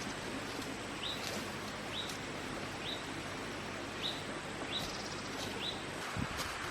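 A bird repeating a short rising chirp about once a second over a steady hiss of forest background noise. A few low thuds come near the end.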